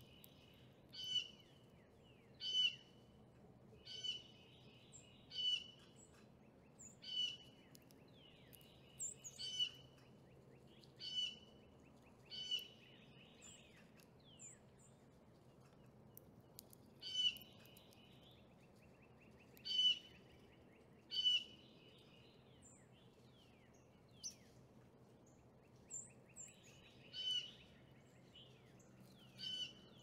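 A bird calling over and over, short sharp calls about every second or second and a half, with a pause of a few seconds about halfway through.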